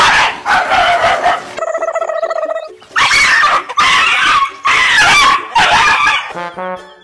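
A dog's loud vocal cries in several long bursts, with a steadier pitched call about two seconds in.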